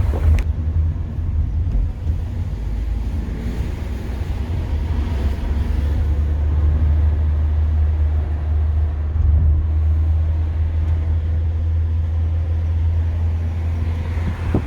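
Steady low rumble of a moving car, heard from inside the vehicle.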